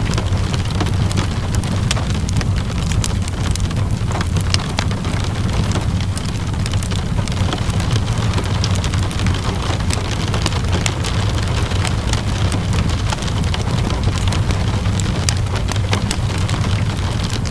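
Steady rainfall mixed with the scattered sharp crackles of a wood fire, over a deep, steady low rumble.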